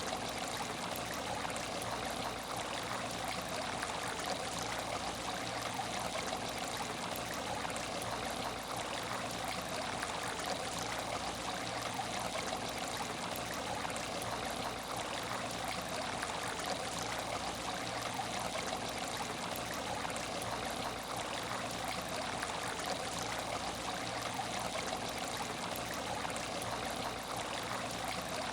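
Water trickling and running steadily in an aquarium tank, an even splashing with no breaks.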